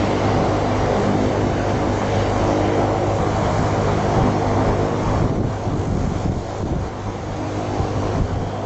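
Steady jet airliner engine noise with wind buffeting the microphone, easing slightly about halfway through and cutting off abruptly near the end.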